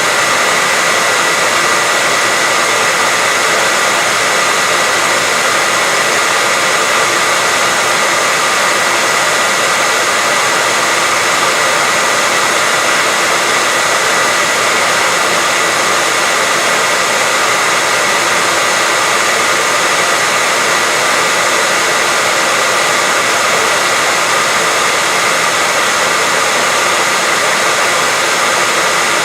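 Continuous white-noise track: a steady, unchanging rushing hiss with a faint high whine.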